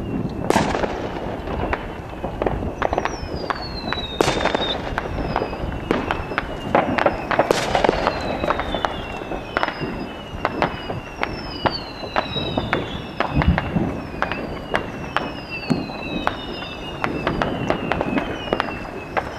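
Fireworks going off continuously: many sharp bangs and pops, with repeated whistles that fall in pitch as whistling fireworks fly.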